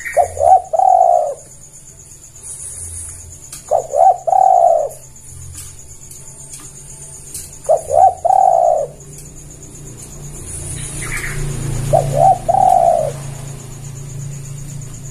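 Spotted dove cooing: four calls about four seconds apart, each two short clipped notes followed by a longer drawn-out coo.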